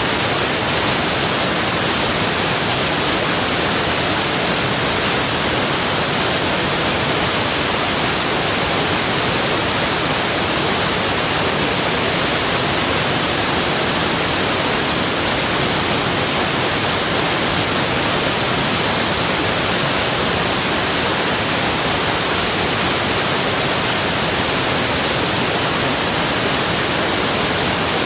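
Rushing water, a loud, even hiss that holds steady without change.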